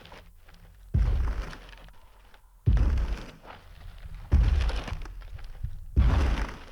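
Sound-effect Tyrannosaurus rex footsteps: four heavy stomps, evenly spaced about a second and a half apart. Each is a deep, sudden thud that fades over about half a second.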